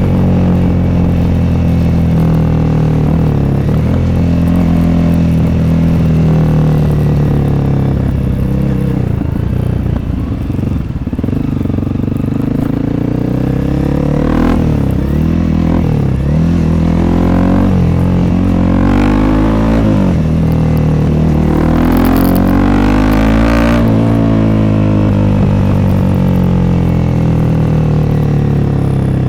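Honda CRF300L single-cylinder engine running through an FMF Q4 aftermarket exhaust while riding, its revs climbing and dropping repeatedly through gear changes. In the second half it gives several quick rev rises, each followed by a drop.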